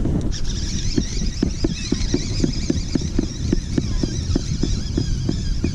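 Fishing reel being cranked to retrieve a lure, ticking evenly about four times a second, with birds calling overhead and wind on the microphone.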